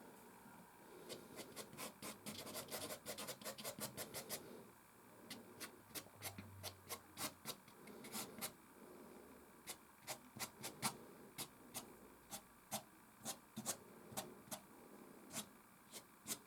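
Soft pastel stick scratching across canvas in short strokes: a quick run of close-set strokes in the first few seconds, then slower strokes about two a second.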